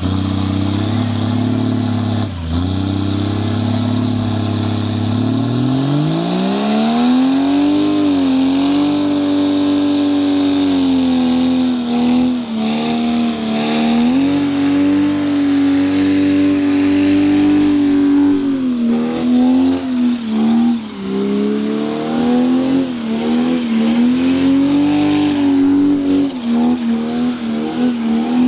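Car engine running low and steady, then revved up about five seconds in and held at high revs for the rest, the pitch wavering and dipping briefly several times.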